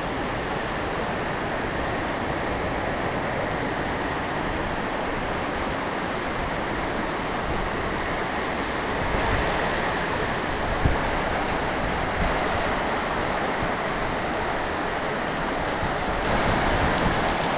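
Heavy tropical downpour, rain pouring steadily and bouncing off the ground as an even hiss, with a small knock about eleven seconds in.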